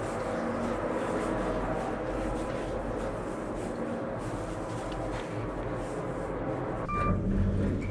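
Steady hum of an elevator car in motion, with a short electronic beep about seven seconds in.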